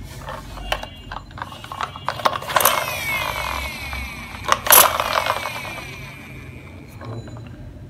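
Plastic clicks and rattles from a toy school bus being handled, with a gliding whir that rises and falls in the middle and two louder crackles about three and five seconds in.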